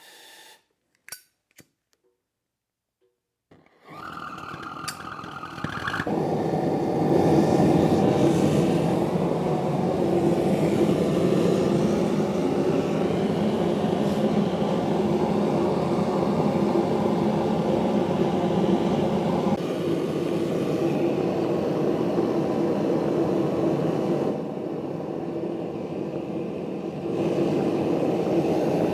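Gas forge being lit: a few clicks, then about four seconds in the burner catches and runs with a steady rushing noise, turned up louder about two seconds later as it goes toward full heat. It drops back briefly near the end, then comes up again.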